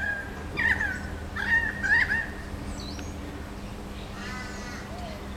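Birds calling outdoors: a run of short calls that bend up and down in pitch during the first two seconds or so, then another call a little over four seconds in, over a faint steady hum.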